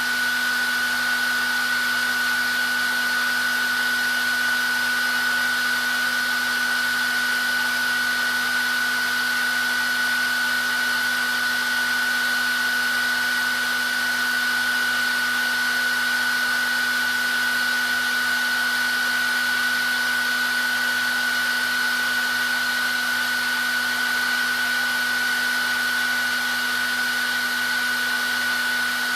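Hair dryer running continuously at a constant setting: a steady rush of air with a high motor whine and a lower hum that never change.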